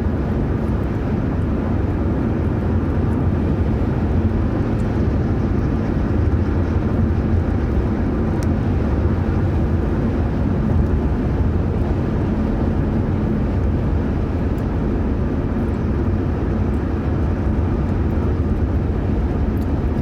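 Steady road and engine noise heard inside a car's cabin at highway speed with the windows closed: a constant low rumble.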